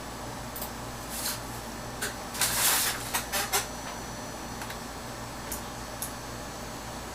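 Squirrel rummaging and feeding in bird seed: scattered small clicks and a short rustle about two and a half seconds in, followed by a few more clicks, over a steady low hum.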